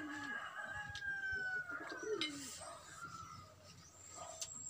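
A bird calling: one long, slightly falling whistled note of about two seconds, followed by fainter, shorter notes.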